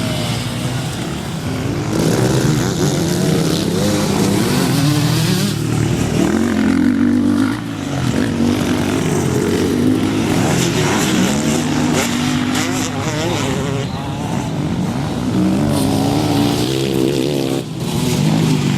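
Motocross motorcycles running on the track, their engines revving up and dropping back again and again as they accelerate and shift.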